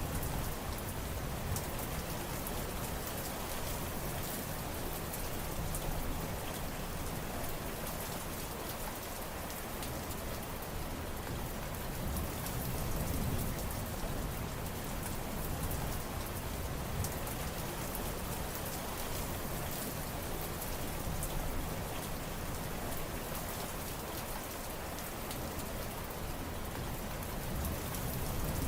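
Steady heavy rain falling and pattering on surfaces, with a constant dense hiss and many fine drop ticks over a low rumble.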